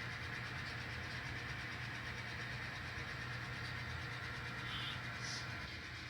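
N scale model train running on the layout: a steady low hum with an even hiss over it, and two short high chirps near the end.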